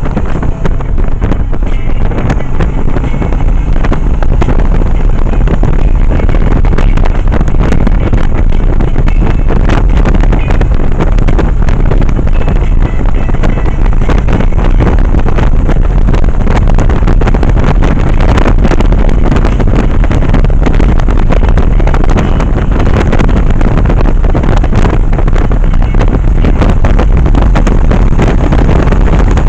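Yamaha 1100 motorcycle running steadily at road speed, with heavy wind rushing over the microphone.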